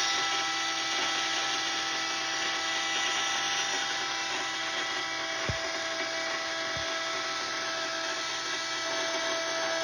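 Electric fuel pump running steadily, a whine over a hiss, as it pressurises the fuel rail and injectors of the engine for a leak check before the first start. A light click about five and a half seconds in.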